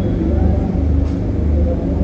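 Steady low rumble of an inflatable bounce house's electric air blower running continuously to keep it inflated.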